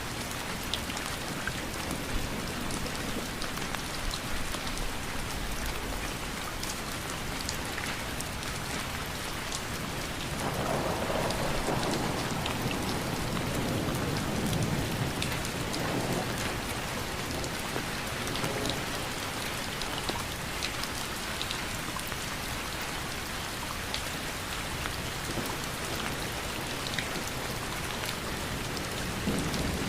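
Steady rain falling, with scattered fine drop ticks over an even hiss. About a third of the way in, a low rumble swells for several seconds and fades; a shorter one comes near the end.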